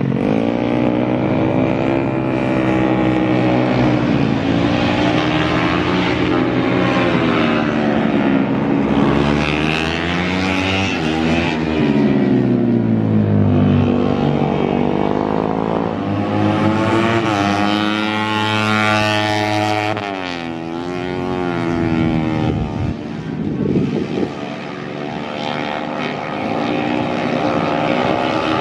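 Racing motorcycle engine revving hard on a circuit. Its pitch climbs and falls several times as the bike accelerates, shifts gears and slows for corners.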